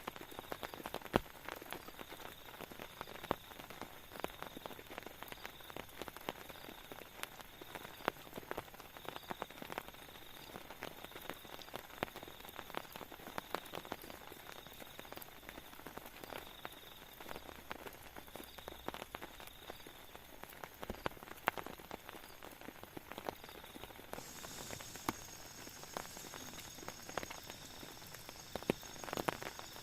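Rain falling, with many separate drops striking irregularly, some louder than the rest.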